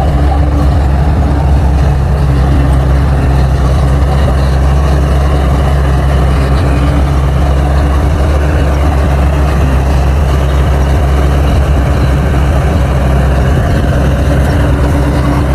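Bulldozer's diesel engine running steadily with a loud, deep drone that holds an even pitch throughout.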